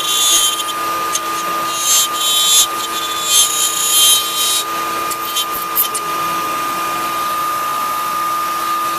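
Router spinning with a steady high whine, cutting wood through a joint template in a run of loud bursts as it makes a first rough pass; about six seconds in the cutting stops and the router runs on freely.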